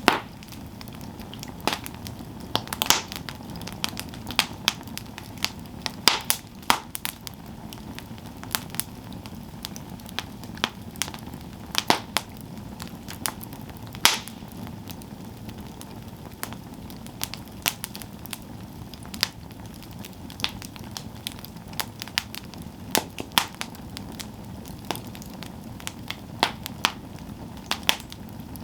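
Campfire burning with irregular sharp crackles and pops from the wood over a steady low rush of flames.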